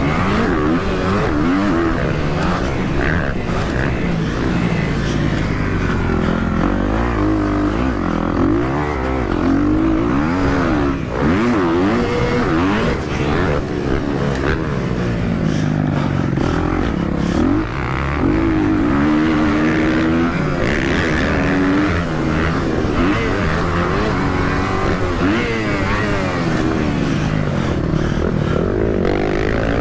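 Dirt bike engine ridden hard, revving up and falling back again and again, its pitch climbing and dropping every second or two through the gears.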